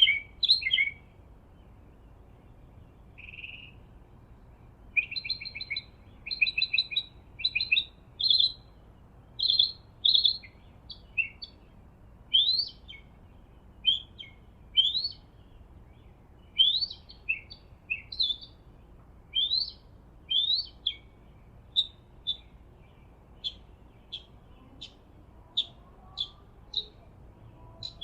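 Songbirds singing in a meadow: a steady run of short, high chirps and quick rising whistled notes, repeated every half second or so.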